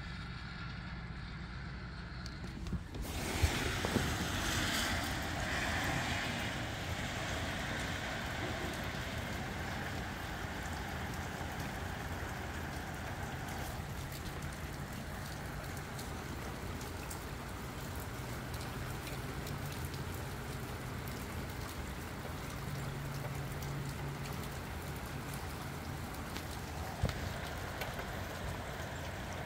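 Steady rain falling in gusty wind, with a low wind rumble on the microphone. The rain hiss swells in about three seconds in, then holds steady, with a few sharp knocks.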